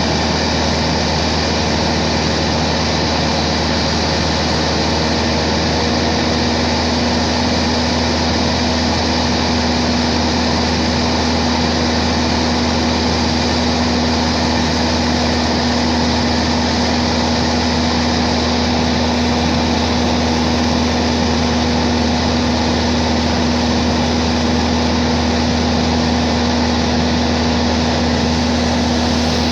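Aircraft engine in steady flight: a constant loud drone with a steady low tone and a hiss above it, unchanging throughout.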